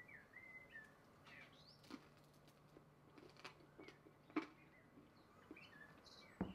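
Faint bird chirps, short and scattered, with a few light clicks; the sharpest click comes just before the end.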